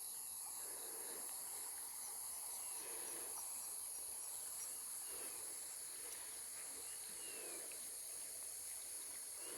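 Faint outdoor morning chorus: a steady high-pitched insect buzz, with a few short, falling bird calls and a brief run of rapid pips now and then.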